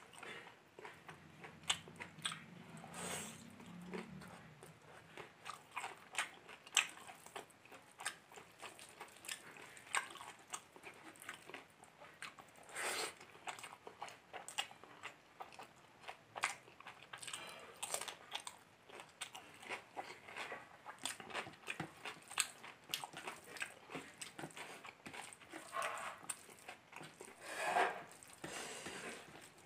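A person chewing mouthfuls of biryani rice up close, with irregular wet mouth clicks and lip smacks throughout.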